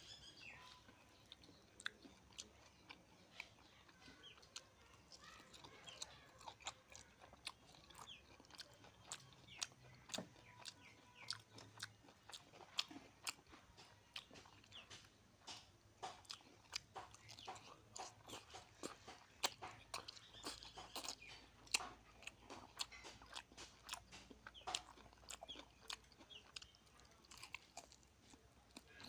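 A person chewing and biting while eating rice and a chicken leg by hand: many short, faint clicks and smacks of the mouth.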